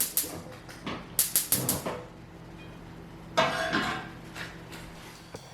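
Kitchen cookware clatter: quick sharp taps, about six a second, in two short runs, then a brief clatter about three and a half seconds in, as vegetables are set to sauté in a pan.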